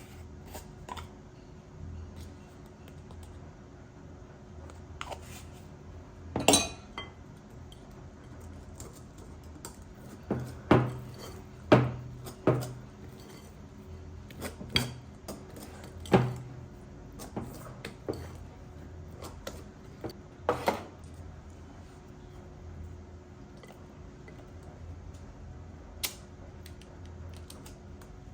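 Dishes and kitchen utensils clinking and knocking now and then, about a dozen sharp clatters, with the busiest run about ten to thirteen seconds in. A faint steady hum underneath.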